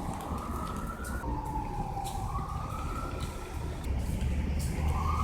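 Siren wailing, its single tone slowly rising and falling over a low rumble.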